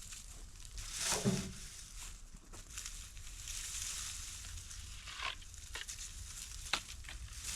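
Crunching and rustling of dry garden plant debris, with a louder crunch about a second in and a few sharp clicks later on.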